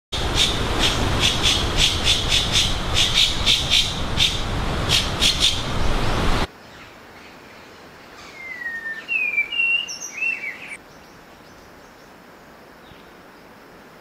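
Rapid, repeated high chirps over a loud hiss, cutting off suddenly about six seconds in. After that, a spotted-winged thrush gives a few short whistled notes that slide in pitch, over quiet forest background.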